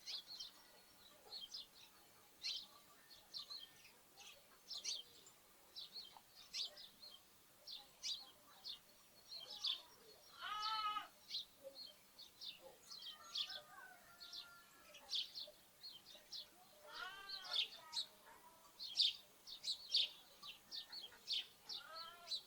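Sparrows chirping continually in short, high calls. A lamb bleats in a quavering voice three times: about halfway through, later on, and again near the end.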